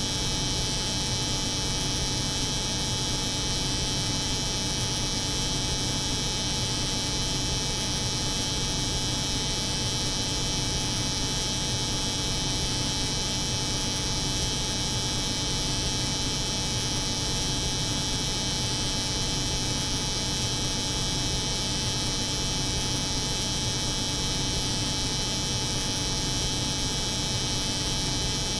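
Layered steady drone of a cold room's refrigeration unit and an electric hair clipper buzzing, unchanging throughout: a low hum under a bright high hiss.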